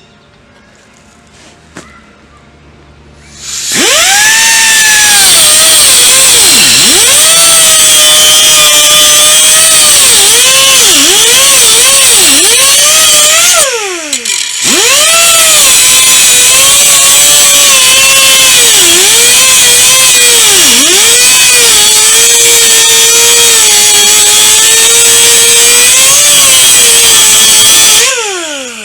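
Electric rotary cut-off tool cutting a notch in the steel strut bracket. It runs loud and high-pitched, and its pitch sags each time it is pressed into the metal. It spins down briefly midway, starts again and spins down near the end.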